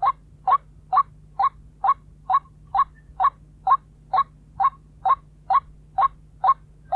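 White-breasted waterhen calling: one short, slightly rising note repeated evenly about twice a second, about fifteen times.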